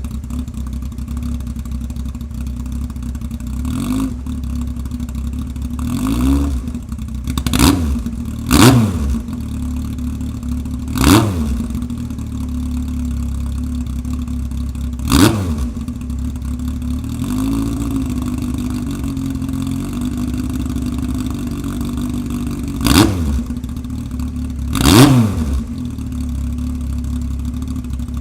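2002 Yamaha FZS1000's 998 cc inline-four idling through a newly fitted Radiant Cycles aftermarket exhaust, blipped to quick revs about eight times, each rising and dropping straight back to idle. A longer, gentler rise in revs comes just past the middle.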